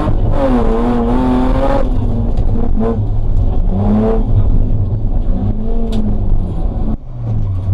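BMW E30 320 rally car engine, heard from inside the cabin, revving hard and repeatedly rising and falling in pitch as it accelerates, lifts and climbs again. About seven seconds in, the engine note dips briefly before rising again.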